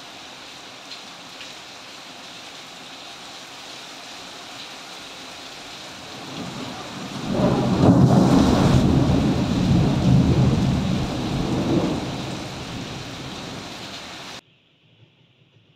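Steady rain, then a loud rolling thunderclap about seven seconds in that rumbles for several seconds and fades. The sound cuts off suddenly near the end.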